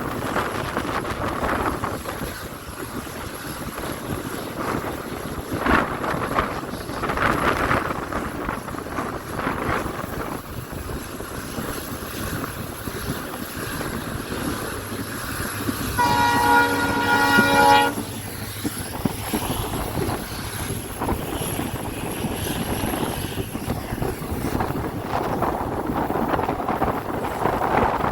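A passenger train running, with steady rushing noise from the ride and the wind. About sixteen seconds in, the horn of its WDP4B diesel locomotive sounds once for about two seconds.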